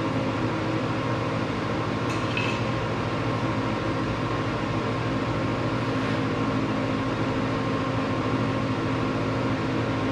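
Steady mechanical hum with fan-like noise from running shop equipment, with no welding arc crackle heard. A faint light clink comes about two seconds in.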